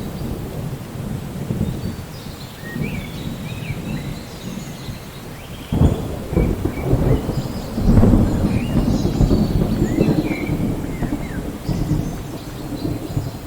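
Steady rain with thunder rumbling low throughout. A new peal of thunder breaks suddenly about six seconds in, is loudest around eight seconds, then rolls away.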